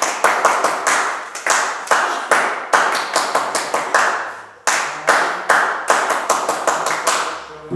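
Ritual hand-clapping (palmas): people clapping quickly and unevenly, with a short break about four seconds in before the claps resume.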